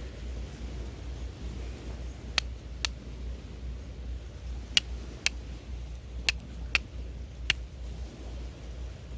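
Seven sharp, short clicks or knocks of hard objects, several in pairs about half a second apart, over a steady low rumble.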